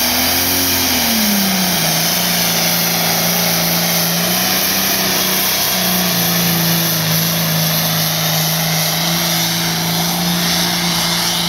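Diesel pulling tractor's engine running hard under load during a pull, a loud steady drone that rises and falls in pitch about a second in and then holds level.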